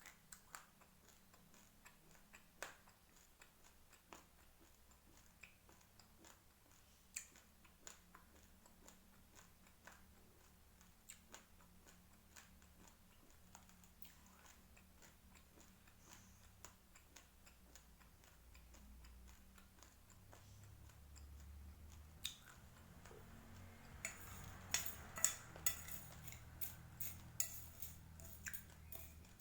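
Raw rice grains crunched between the teeth: scattered sharp cracks, then a dense run of crunching over the last few seconds.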